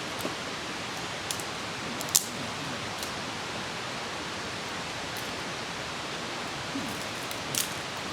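Steady rush of a fast mountain river, with a few sharp clicks over it, the loudest about two seconds in.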